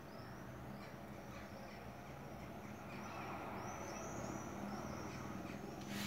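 Faint bird chirping, a run of short high chirps that grows a little louder in the second half, over a low steady hum.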